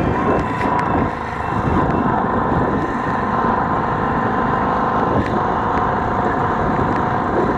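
Steady motor-vehicle noise from a motorcycle ride through traffic: engine and road noise with a level tone running through it.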